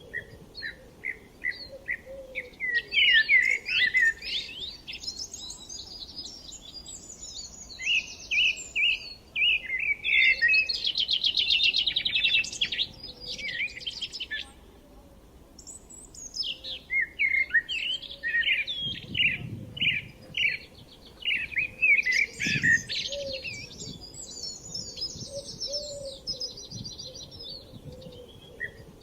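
Several songbirds singing and chirping: runs of quick repeated chirps and bursts of warbling song, with a fast trill about ten seconds in and a short lull about halfway through.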